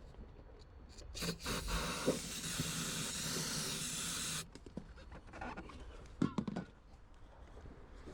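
Aerosol brake cleaner sprayed into the engine's air intake: a steady hiss for about three seconds that stops abruptly. The brake cleaner stands in for fuel to test whether this crank-no-start engine is simply getting no fuel.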